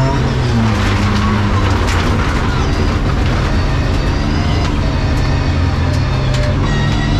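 Race car engine heard from inside the stripped cabin, revs falling in the first second as the driver lifts off, then running low and steady before revving up again near the end. Scattered knocks and rattles sound over it.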